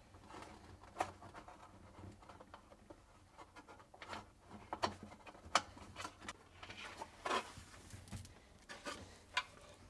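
Faint, scattered clicks and light rubbing of plastic parts as the damper cover is worked off a refrigerator's air tower assembly.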